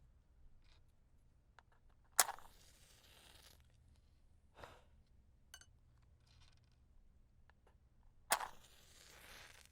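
Wooden matches struck twice, about six seconds apart, each strike a sharp scrape that flares into about a second of hissing as the match head catches. Faint taps and clicks come between the strikes.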